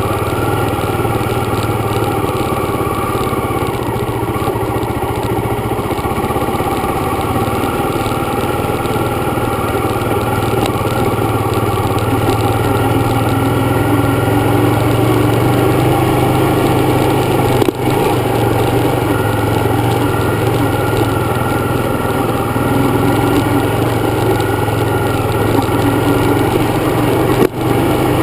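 Dirt bike engine running at a steady pace while riding, with two brief dips in level in the second half.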